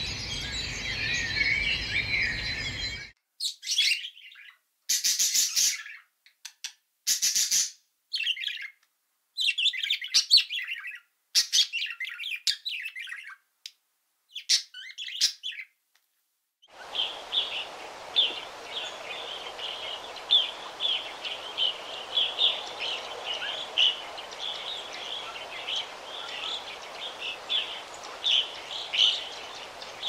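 Birds chirping: a dense chorus for the first three seconds, then short bursts of high chirps separated by silent gaps, and from about halfway a steady background hiss with rapid, repeated short chirps.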